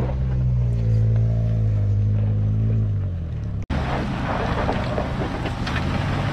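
Off-road 4x4 engine running steadily at low revs, easing slightly near the middle. A little over halfway it cuts off abruptly and switches to a rougher engine sound, slightly higher in pitch and mixed with a scattered rattling noise.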